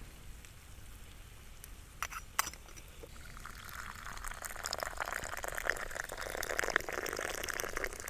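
Liquid being poured: a steady pour begins about three seconds in and runs for several seconds, after two light clicks.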